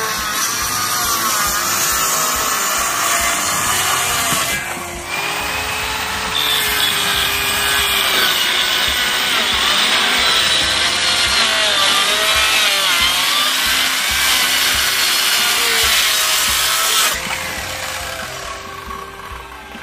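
A saw cutting through wood: a steady rasping noise with a short break about a quarter of the way through, tailing off near the end.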